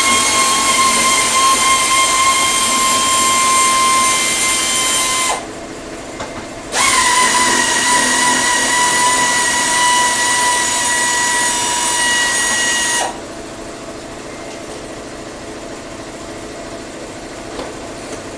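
A power tool's electric motor whining steadily in two runs: it stops about five seconds in, starts again a second and a half later, dips slightly in pitch as it works, then cuts off a little past halfway, leaving a quieter steady hum.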